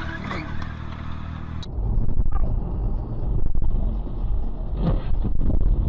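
Car interior driving noise: a steady engine hum, then an abrupt change about a second and a half in to a louder, deep rumble of road and wind noise with a few knocks.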